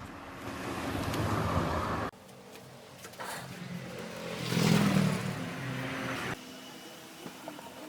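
A power tool running in two stretches, the second swelling louder at its middle. Each stretch cuts off suddenly.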